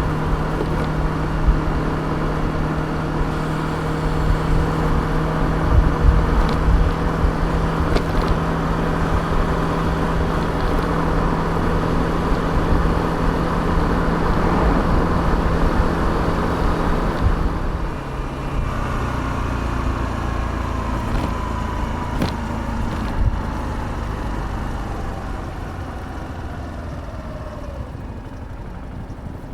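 Suzuki Address 125 scooter's single-cylinder engine and belt drive running at a steady road speed, with wind rumbling on the microphone. About eighteen seconds in the tone changes, and a whine falls steadily in pitch as the scooter slows down.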